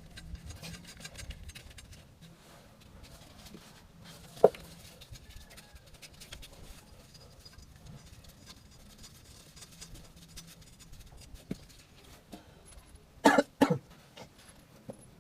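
Scattered knocks and clicks of hand tools and metal parts being handled during engine work: one sharp knock about four seconds in, a few light taps later, and the loudest two or three knocks in quick succession near the end.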